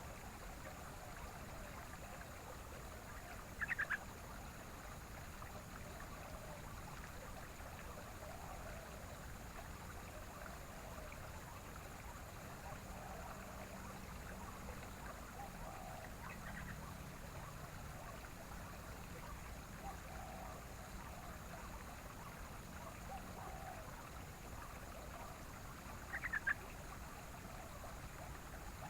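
Yellow-vented bulbul giving two short, sharp calls, one a few seconds in and one near the end, over a steady faint hiss with softer, lower chirps scattered throughout.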